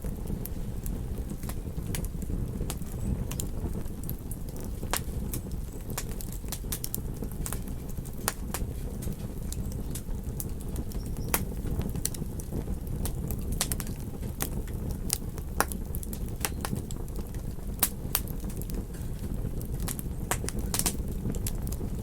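Campfire crackling, with frequent sharp irregular pops and snaps of burning wood over a steady low rumble.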